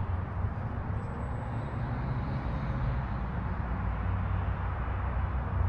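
Gusty wind buffeting the microphone: a low, uneven rushing noise that rises and falls with the gusts.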